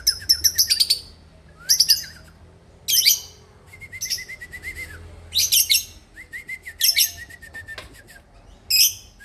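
A songbird singing in short phrases of rapid trills, a run of quick high notes over a lower repeated trill, repeated about every one to two seconds with brief pauses between.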